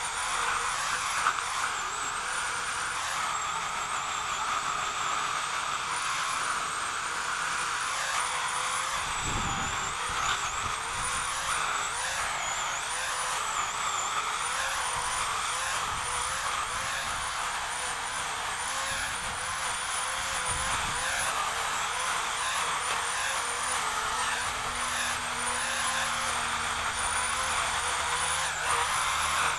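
Small power saw running steadily, its high whine wavering up and down in pitch as it works through branches, with a low thump about nine seconds in and again about twenty seconds in.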